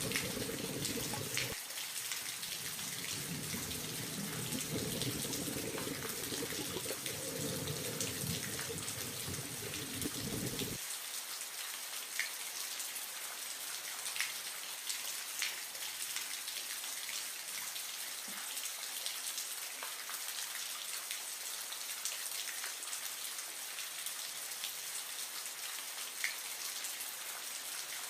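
Water splashing and trickling, with small drip-like ticks throughout. A deeper rush of water stops suddenly about eleven seconds in, leaving a lighter, rain-like patter.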